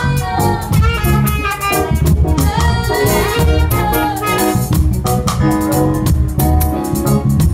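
Band music: an upbeat Ghanaian gospel song with a steady drum beat under a melodic lead line.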